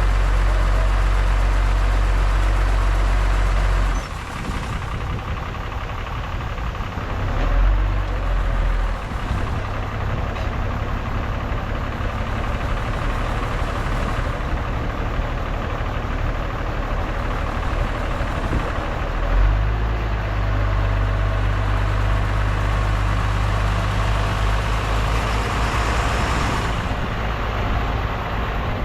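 Heavy diesel earthmoving machinery running: a steady low engine drone that turns rougher about four seconds in, with louder swells twice, and the steady drone comes back in the second half.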